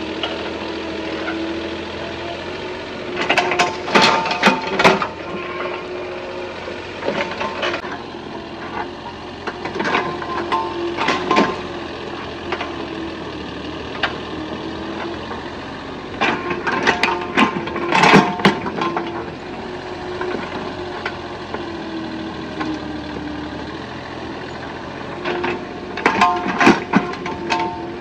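Excavator's diesel engine running steadily, its pitch shifting a little under load, with four bursts of cracking and snapping as it digs up trees and roots.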